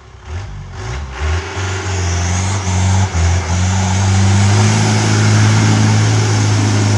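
Off-road 4x4 engine revving hard under load, building over the first second and then held loud and steady at high revs.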